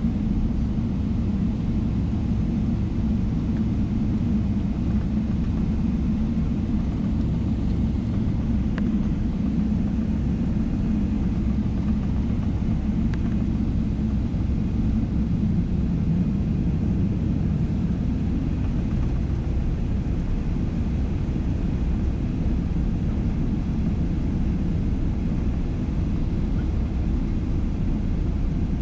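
Steady low drone inside a Boeing 777-300ER's cabin: its engines and the airflow around the fuselage, level and unchanging, with a couple of faint ticks.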